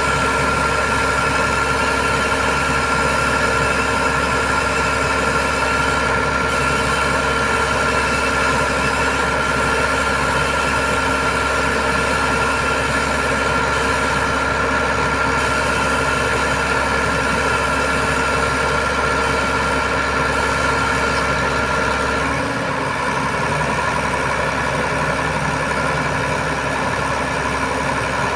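Heavy diesel engine running steadily, with a high steady whine over it; about three-quarters of the way through the whine stops and the engine note drops slightly.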